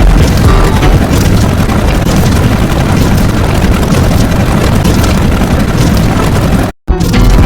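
Loud, dense rumbling noise, heaviest in the bass, that cuts out for a split second near the end.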